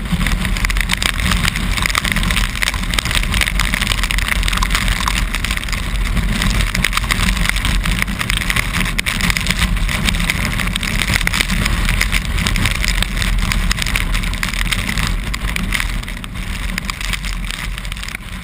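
Yamaha XT660Z motorcycle on the move, its single-cylinder engine running under a steady rush of wind and road noise. The sound fades out near the end.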